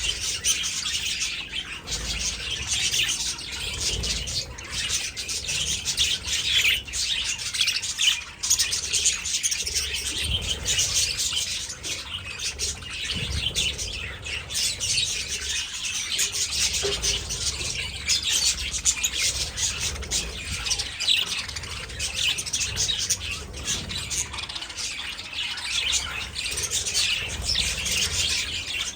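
A flock of budgerigars in an aviary chattering and chirping continuously, many birds calling at once in a dense, fast warble.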